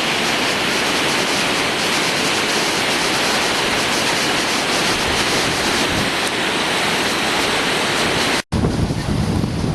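Fast-flowing floodwater rushing past in a steady, even hiss. About eight and a half seconds in it cuts off abruptly, and a gustier sound with wind buffeting the microphone follows.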